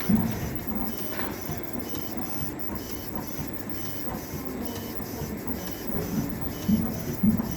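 CNC machine running as it engraves a design into a silver round, its motors making a steady mechanical whir with a short high tone repeating at even intervals.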